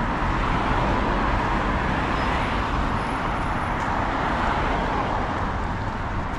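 Steady street traffic noise: cars passing, with a continuous hiss of tyres and engines.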